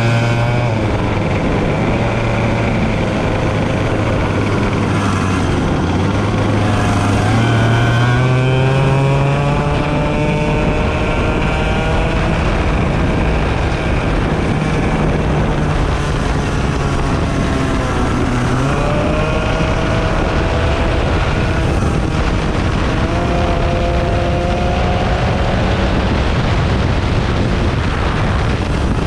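Several 100cc racing engines running hard on a track, each pitch rising and falling as they accelerate and back off, with more than one engine heard at a time.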